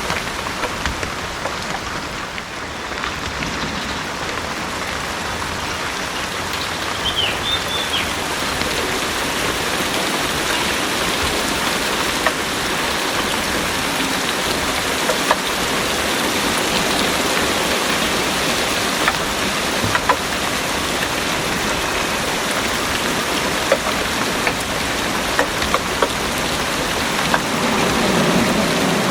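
Heavy rain pouring steadily, with sharp drops landing close by. A low rumble of thunder builds near the end.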